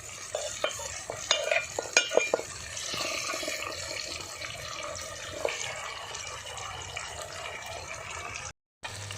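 Whole quail frying in oil in a pan with onions and tomatoes, sizzling steadily, with a spoon clinking and scraping against the pan in the first couple of seconds.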